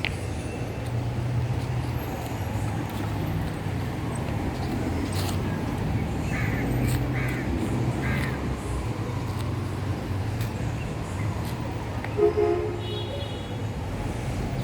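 Three short bird calls about six to eight seconds in, over a steady low rumble of outdoor background noise, with a brief pitched call near the end.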